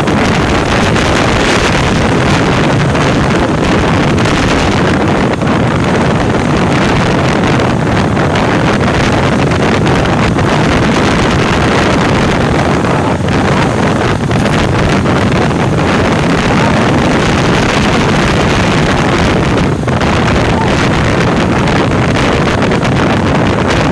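Loud, steady wind rush over the microphone of a motorcycle on the move in the rain, with the bike's running noise mixed in.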